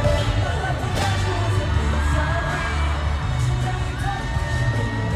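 Live pop concert music with singing and a heavy bass line, played loud through the arena sound system.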